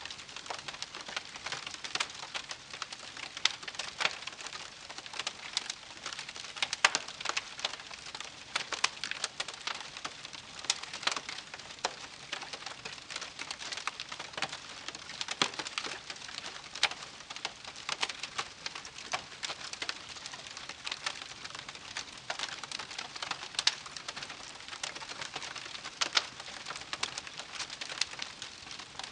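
Wood campfire crackling: a steady hiss with frequent irregular sharp pops and snaps.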